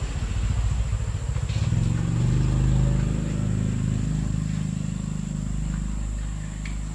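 Motorcycle engine running, getting louder over the first two seconds and then holding steady.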